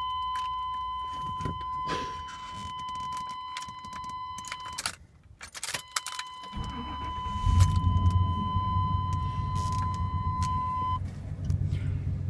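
A steady warning tone sounds with keys jangling in the ignition. About six and a half seconds in, the 1990 Chevrolet/GMC C/K pickup's 5.7-litre V8 cranks and catches, then settles into a steady idle.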